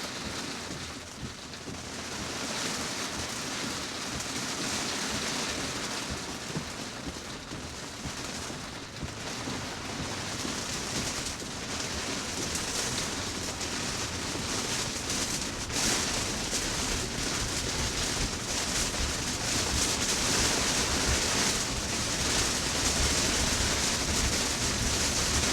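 Heavy rain pelting a car's roof and windshield, heard from inside the cabin as a steady, dense hiss that grows a little louder over the stretch.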